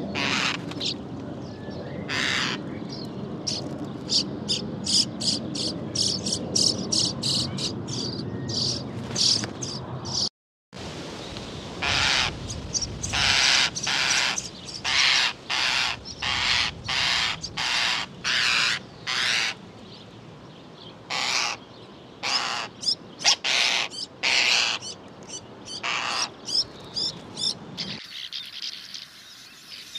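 Common starling calling: first a rapid series of short, high clicking and whistled notes, then a string of harsh, grating calls repeated about once or twice a second. Near the end the sound changes to the thin, steady twittering of sand martins.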